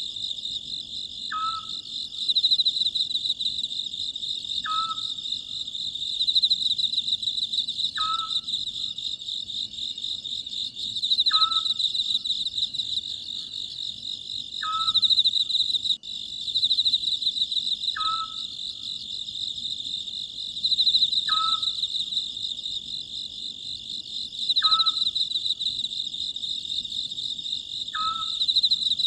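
Oriental scops owl calling a short, clipped note about every three seconds, over a steady high chirring of insects.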